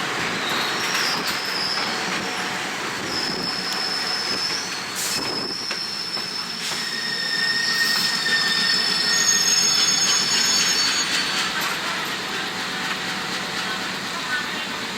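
Passenger train running, its wheels squealing against the rails in several steady high-pitched tones that start about a second in and die away about eleven seconds in, over the constant rumble of the running train and wind noise on the microphone.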